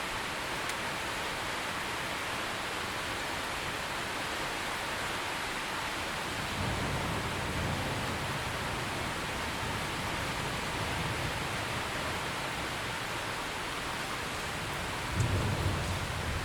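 Steady rain falling, with a low rumble of thunder rolling in about six seconds in and lasting several seconds, then a louder, sharper thunder rumble near the end.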